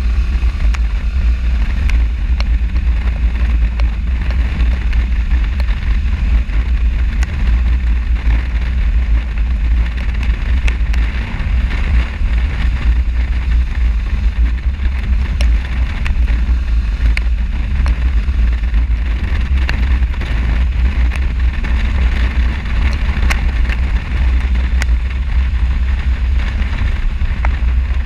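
Riding noise from a motorcycle: steady, heavy wind rumble on the action camera's microphone over the running bike and road.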